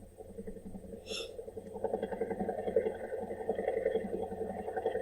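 Helicopter engine and rotor drone, steady with a slight pulse, growing louder about two seconds in. A brief high tone sounds about a second in.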